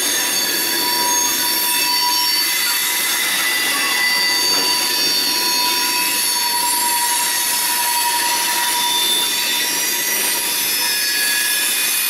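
Freight train of covered hopper cars rolling past: a steady rumble of wheels on rail with several high-pitched wheel squeals that come and go.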